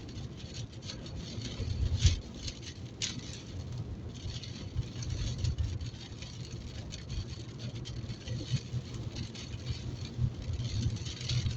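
Rain pattering on a car's roof and windscreen in many small, sharp taps, heard from inside the cabin, over the steady low hum of the car driving.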